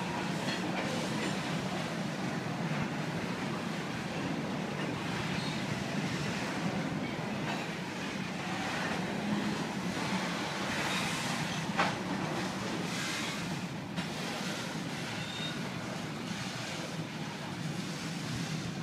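Covered hopper cars of a freight train rolling past: a steady rumble of wheels on rail, with a single sharp knock about twelve seconds in.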